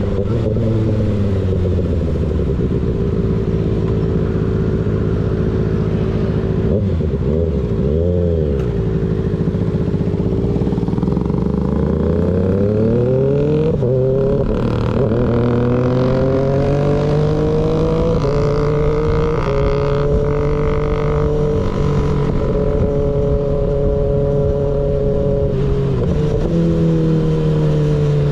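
Sport-bike inline-four engine with an unbaffled slip-on exhaust, heard from the bike while riding. The revs hold steady, dip and pick up again about a third of the way in, then climb through the middle and settle into cruising with small changes in engine speed.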